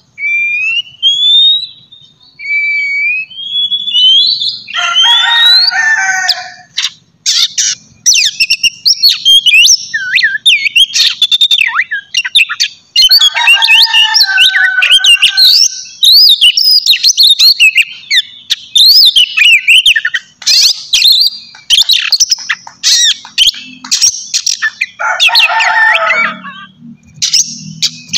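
Oriental magpie-robin (kacer) singing loudly and without pause: fast, varied whistled notes, sweeping glides and chirps, broken three times by a harsh, scratchy rasp of a couple of seconds.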